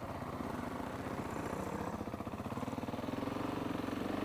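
KTM 690's single-cylinder four-stroke engine running at a steady, fairly low speed while the motorcycle is ridden.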